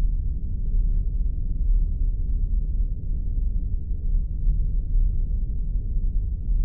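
Synthesised spaceship ambience: a steady, deep, droning hum with most of its weight in the bass, and a few faint, scattered ticks above it.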